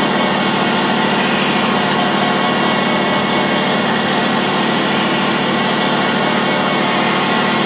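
Surface grinder running steadily, its motor and spinning wheel giving a constant hum and hiss with a thin steady high tone, while steel wood chipper blades are ground down a couple of thou per pass.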